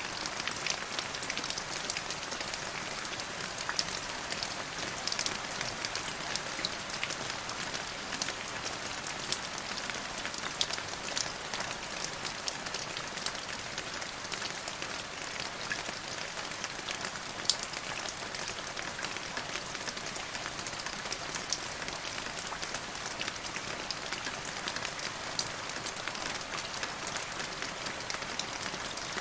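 Steady rain falling on a surface: an even hiss with many separate drops ticking through it.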